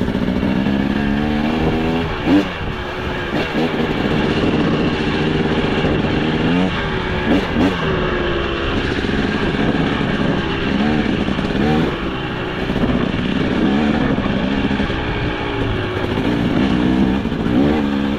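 KTM 300 XC two-stroke dirt bike engine being ridden on trail, its pitch rising and falling over and over with the throttle, with a few sharp knocks along the way.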